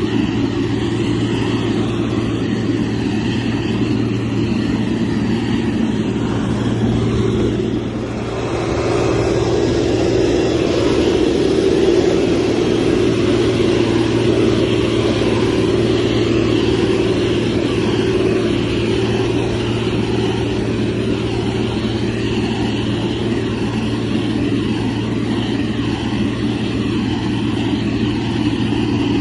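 Motor grader's diesel engine running steadily. It dips briefly about eight seconds in, then picks up and runs a little louder.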